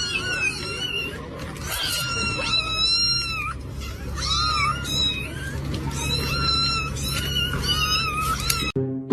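Cat meowing over and over in a quick string of short, high calls, breaking off abruptly just before the end.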